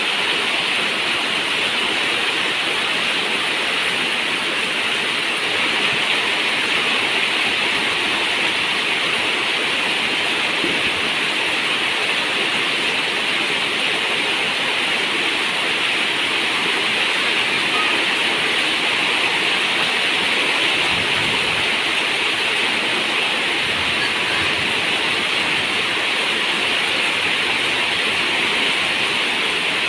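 Steady, unbroken rain drumming on a zinc roof, a continuous rushing hiss of water.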